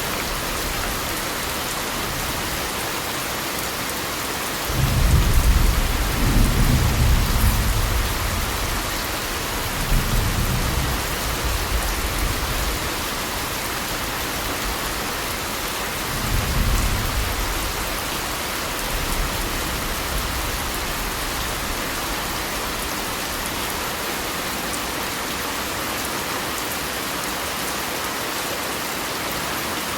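Steady rain hissing, with low rolls of thunder: a long one about five seconds in, a shorter one around ten seconds, and another around sixteen seconds.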